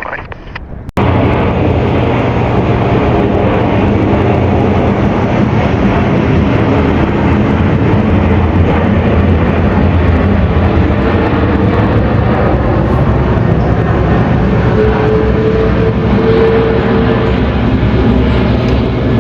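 Jet engines of an American Airlines Boeing 777-200ER running loud and steady as the airliner passes, a dense low noise that starts abruptly about a second in and holds without letting up.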